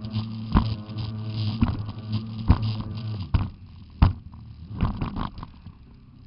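Jet ski engine running at a steady pitch, cut through by repeated sharp thumps; the engine drops away about three seconds in.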